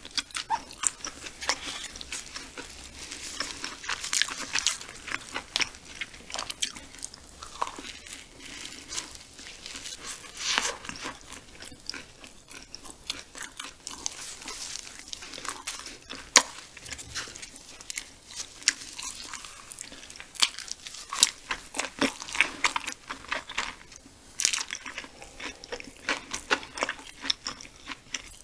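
Close-miked mukbang eating of barbecue rib meat: a person biting and chewing with an open mouth, giving irregular short clicks and smacks throughout.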